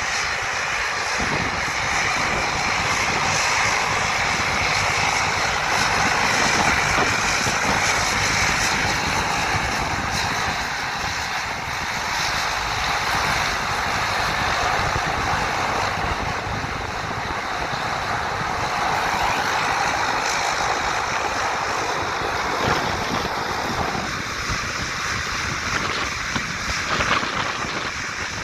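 Turboprop airliner engines running steadily, a rushing noise with a thin high whine held throughout.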